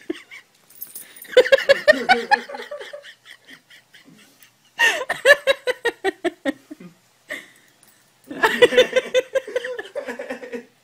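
A person laughing hard in three long bouts of rapid, pulsed laughter with short pauses between them.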